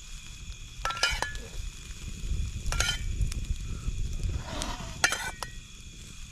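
Chicken cooking on an oiled grill, a metal utensil scraping and clinking against the grate several times. Insects chirp steadily behind.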